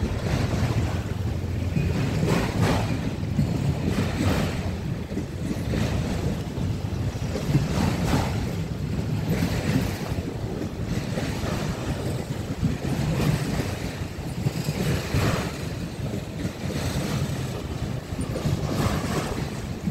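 Freight train of autorack cars rolling past, a steady rumble of steel wheels on the rails with swells every second or two, and wind buffeting the microphone.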